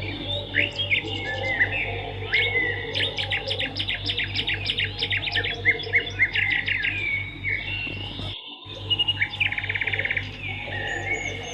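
Swiftlet calls: a dense run of rapid, high chirps and twitters, with a fast buzzy trill about nine seconds in, over a steady low hum. The sound cuts out completely for a moment about eight seconds in.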